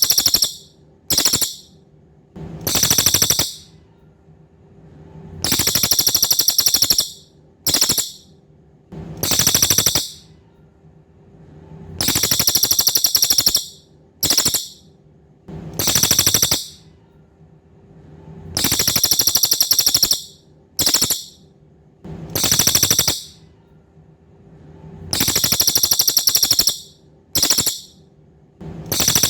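Cililin songbird calling: high, buzzing rattles in sets of three (a long rattle, a short one, then another long one). The set repeats about every six and a half seconds over a faint steady hum.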